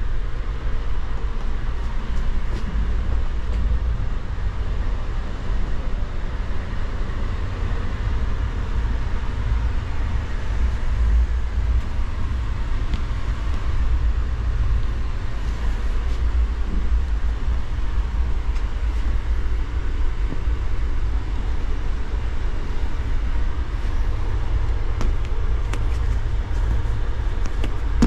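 Steady low rumble and running noise of an Indian Railways sleeper carriage in motion, heard inside the compartment.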